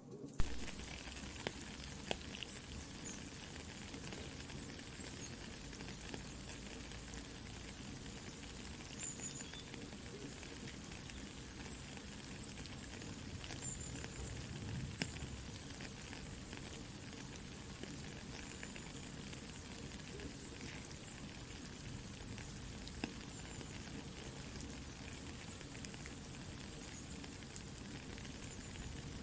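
Soft rain falling as a steady hiss, mixed with a campfire crackling in scattered sharp pops, one loud pop about half a second in.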